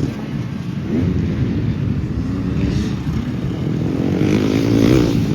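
Motocross dirt bike engine revving, its pitch rising and falling, building to its loudest near the end.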